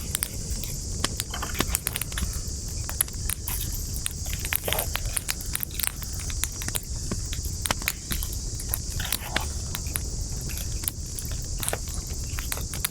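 Wood campfire burning, crackling with frequent irregular sharp pops and snaps over a steady high hiss and a low rumble.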